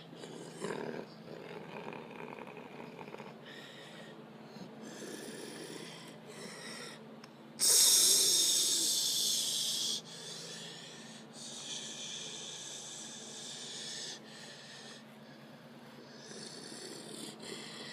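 Ryko Soft Gloss automatic car wash running: a steady machine hum with changing swishing and whirring as it works over the car. Midway a loud hiss comes on suddenly, fades slightly over about two seconds, then cuts off abruptly.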